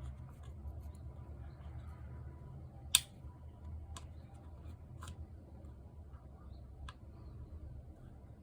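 Four short, sharp clicks over a low steady hum, the loudest about three seconds in: tools and small parts being handled during disassembly work.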